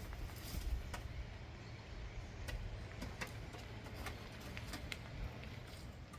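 Footsteps while walking: irregular sharp clicks and scuffs over a low, steady rumble.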